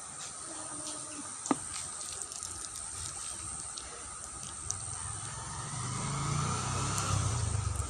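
Steady outdoor background of running water in a small ditch, with insect hiss. There is one sharp click about a second and a half in, and a low hum swells in the second half.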